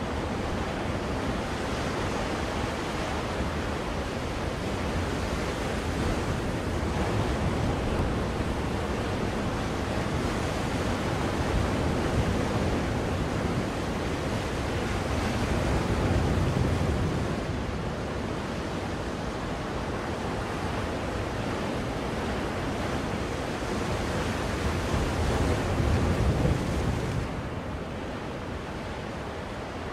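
Ocean surf: a steady rush of waves washing in, swelling and ebbing in slow surges, with the louder swells around the middle and shortly before the end.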